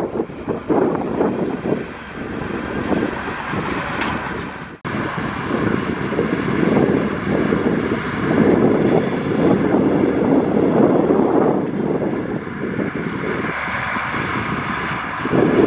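Heavy diesel earth-moving machinery running steadily, a rough engine rumble with wind on the microphone. The sound cuts out for an instant about five seconds in.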